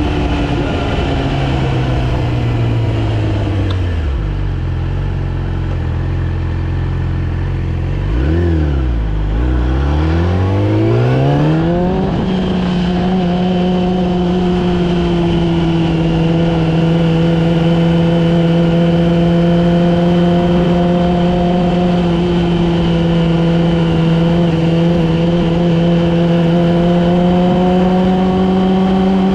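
Yamaha R6's inline-four engine, heard from the bike as it is ridden: the revs fall away over the first few seconds and stay low, then climb steeply as it accelerates, and it settles into a steady cruise for the second half.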